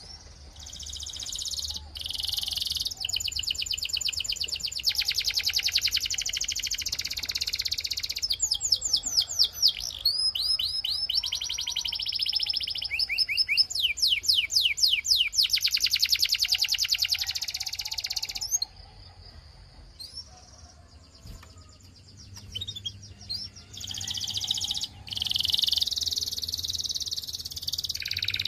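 Canary singing long phrases of fast trills and rapid runs of repeated sweeping notes. The song stops about two-thirds of the way through, leaving only faint chirps, and a last trilled phrase starts near the end.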